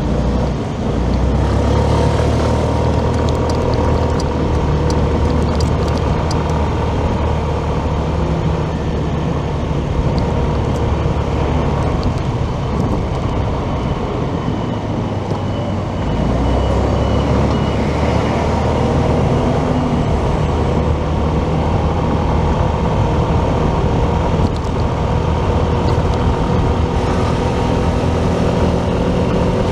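Motorcycle engine running steadily under way, with road noise. The engine note dips briefly about halfway through, then picks up again.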